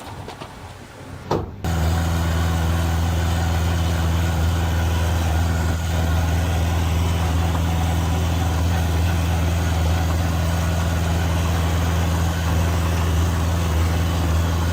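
Heavy diesel engine of a construction machine running steadily at an even, deep pitch, cutting in abruptly after a quieter first second and a half that ends with a short knock.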